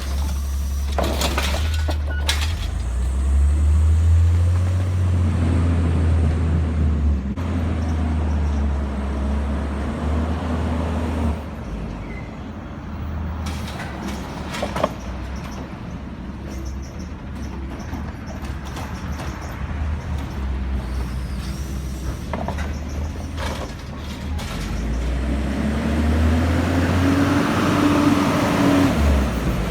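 Garbage truck's diesel engine running low, revving up twice as the hydraulics work, with a few sharp clanks.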